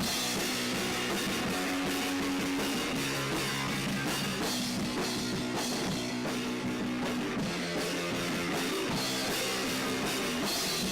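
Rock music with drum kit and electric guitar, playing steadily.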